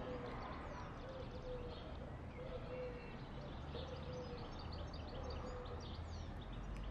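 Birds calling: a short low call repeated about once a second, with scattered higher chirps over a faint low background rumble.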